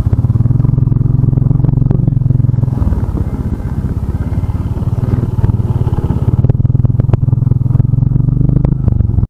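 Motorcycle engine running steadily while riding on the road, a low, loud drone made of rapid even firing pulses.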